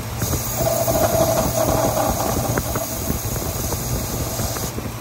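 Ford Excursion's Triton V10 engine running with a steady low hum, under a steady hiss that comes in just after the start and cuts off sharply near the end.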